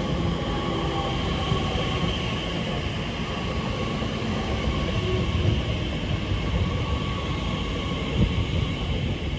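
Elizabeth line Class 345 electric train running past along the platform: a steady rumble of wheels on rail with a faint high whine over it.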